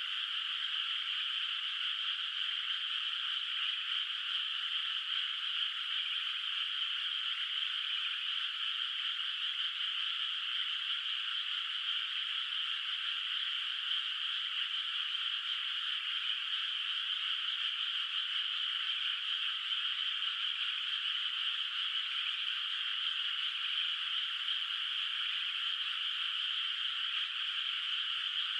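Dense chorus of many frogs calling together in a flooded rice paddy, a steady, overlapping high-pitched din with no pauses.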